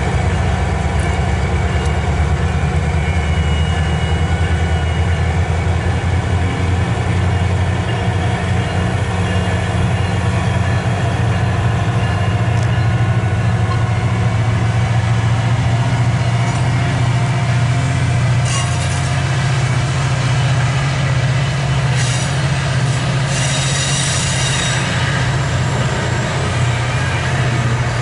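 MARC commuter train's diesel locomotive running with a steady low engine hum that steps up in pitch partway through as the train pulls out of the station. Several brief high hisses and squeaks come near the end as the coaches roll by.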